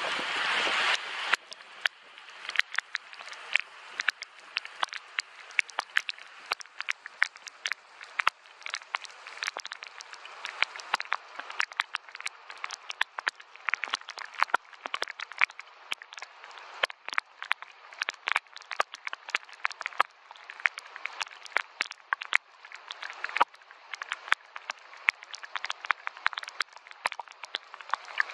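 Gentle rain, with many distinct drops tapping sharply over a soft patter. A denser, louder hiss in the first second or so thins out to scattered drops.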